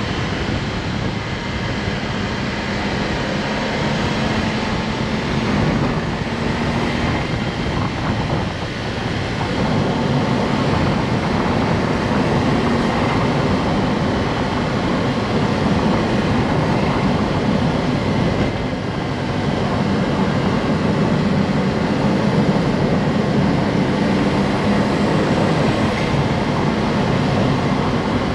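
Honda S660's turbocharged 658 cc three-cylinder engine and tyre and road noise while driving, a steady drone whose low engine note shifts slightly with throttle.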